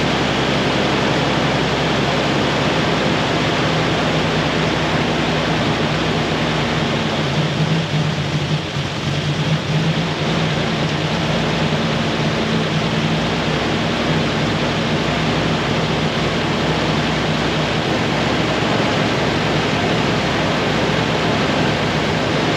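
Toyota Land Cruiser FJ55's inline-six petrol engine running steadily, just started on its newly installed HEI distributor.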